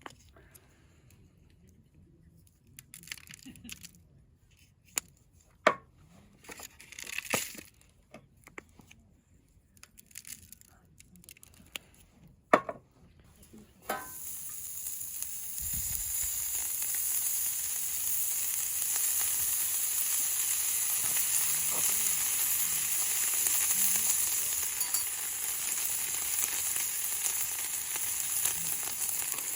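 A few light clicks and knocks of cookware being handled, then about halfway through a steady sizzle starts: food frying on a hot pan.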